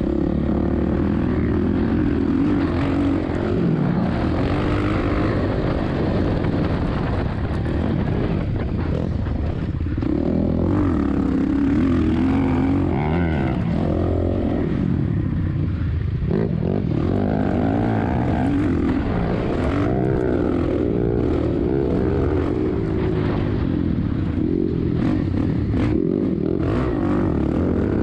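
Suzuki RM-Z450 four-stroke single-cylinder motocross engine, heard from on board, revving up and down again and again as the bike is ridden hard around a sand track, with wind rumbling on the microphone.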